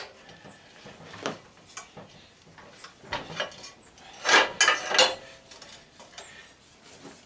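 Hand tools and metal parts clinking and clanking during disassembly of an old cast-aluminum belt/disc sander: scattered sharp metallic knocks, with a louder cluster of clanks about four to five seconds in.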